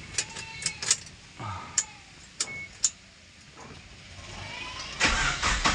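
Sharp clicks of the Suzuki Escudo's ignition key switch being turned, then about five seconds in the starter cranks the engine. The key switch is worn, so the starter only engages some of the time.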